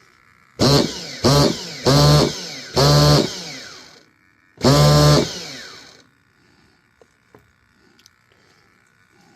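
Nova T6R nitro engine spinning up in five short bursts, each cutting in suddenly and winding down with a falling pitch; the fifth, near the middle, is the longest.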